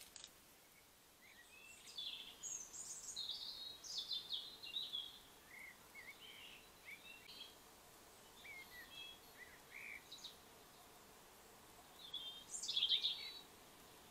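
A songbird singing: a run of short, varied twittering phrases, with the loudest phrase near the end.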